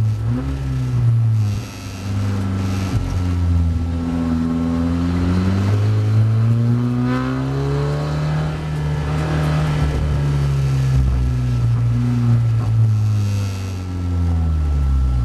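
SEAT Leon Supercopa race car's engine, heard from inside the cabin, pulling hard up through the gears. Its pitch climbs, drops sharply at shifts and lifts, then falls as the car slows near the end.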